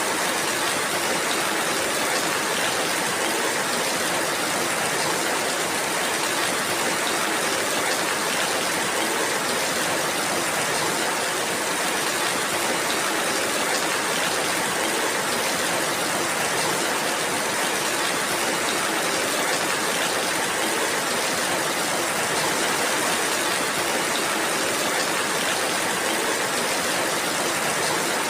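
Steady rainfall, an even unbroken hiss with no single drops standing out.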